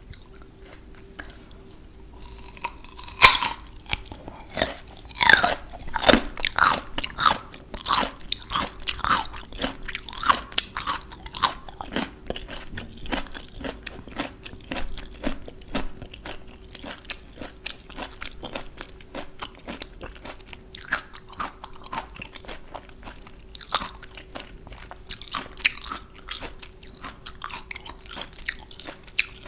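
A person biting into and chewing crunchy raw vegetables close to the microphone. A sharp bite comes about three seconds in, then a quick run of crisp crunches that grows softer and sparser, over a faint steady hum.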